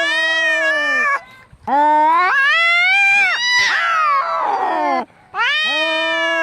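Angry domestic cats caterwauling: three long, drawn-out yowls that bend up and down in pitch, split by two short pauses. The middle yowl turns harsh and screechy, the threat yowling of cats squaring up to fight.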